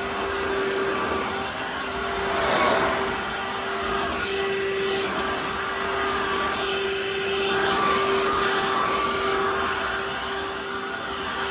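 Dirt Devil Versa cordless stick vacuum running, a steady motor whine over the rush of air, its level swelling and easing slightly as it works.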